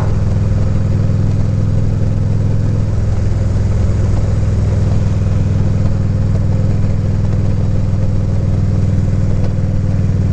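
Harley-Davidson Ultra Limited touring motorcycle's V-twin engine running steadily while riding, its note shifting slightly about three seconds in, with wind noise on the helmet microphone.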